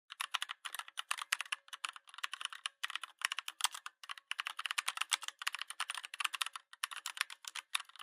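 Rapid keyboard typing: a dense, fast run of key clicks with a few short pauses.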